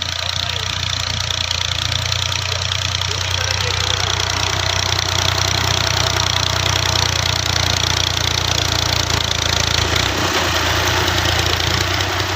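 A tractor's diesel engine runs steadily at a constant low throb, with no change in speed.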